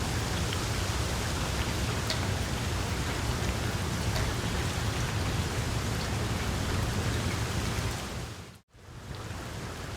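Small wood fire in a fireplace crackling, a steady hiss with occasional faint pops. It drops out abruptly for a moment about eight and a half seconds in, then comes back a little quieter.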